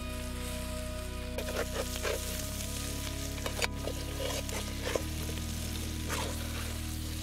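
Diced banana pieces frying in hot oil in an iron kadai, sizzling steadily, with a spatula scraping and stirring through them several times.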